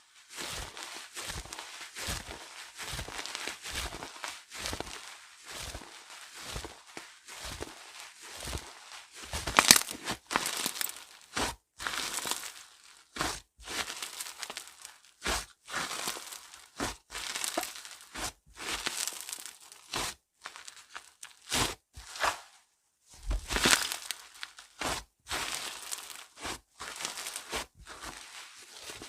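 Slime being squeezed, stretched and poked by hand, giving a run of short pops and clicks, roughly one or two a second, with a few louder pops among them.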